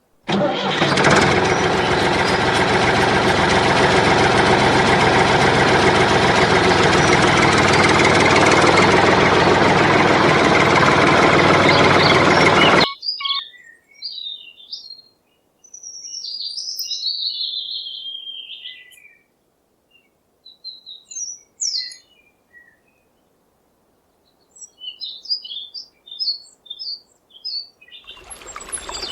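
A tractor engine runs steadily for about thirteen seconds, then cuts off abruptly. Birds then chirp in short, scattered calls.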